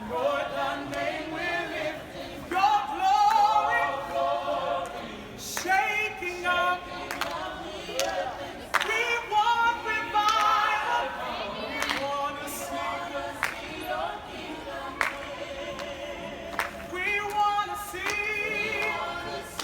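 A group of voices, mostly women's, singing a gospel song a cappella, with held, wavering notes and a few sharp clicks.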